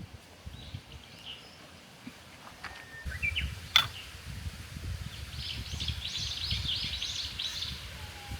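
A small bird chirping, then singing a fast run of short high notes in the second half. A single sharp knock comes a little under four seconds in, over a low rumbling background.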